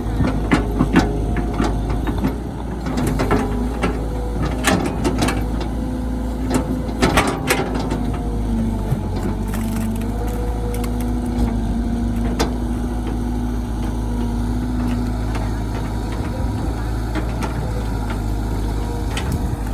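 Diesel engine of heavy machinery running steadily, with sharp knocks and clanks, most of them in the first eight seconds.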